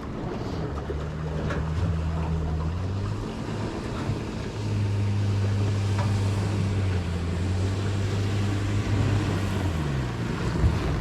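1971 Sanger flat-bottom V-drive boat's inboard engine running under way over a rush of water and wind. The engine note steps up and gets louder about four and a half seconds in, then falls away near the end.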